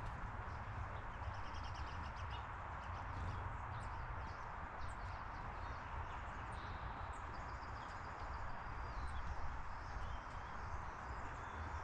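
Steady outdoor background hiss and low rumble, with faint small-bird chirps and short high trills, twice.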